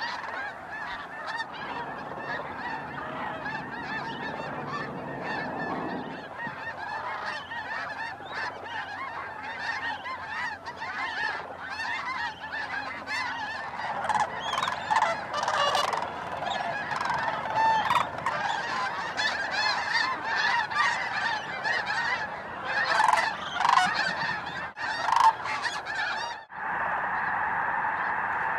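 A large flock of snow geese calling together: a dense, continuous din of overlapping honks, growing louder with many sharp calls in the middle, briefly dropping away near the end before the chorus resumes.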